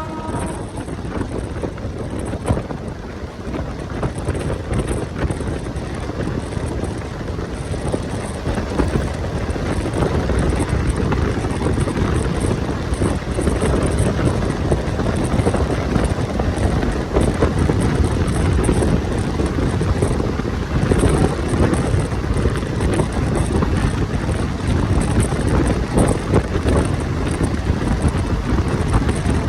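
Passenger train running along the track, heard from on board: a steady rumble of wheels on rail with wind buffeting the microphone, growing louder about ten seconds in as the train picks up speed.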